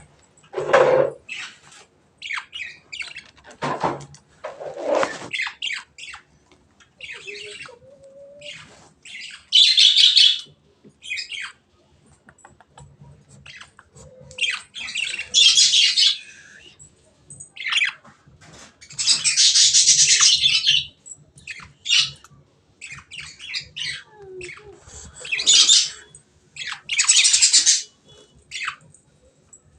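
Pet lovebirds chirping and chattering in many short calls. Several loud, harsh screeches of about a second each break in, and the longest runs about two seconds.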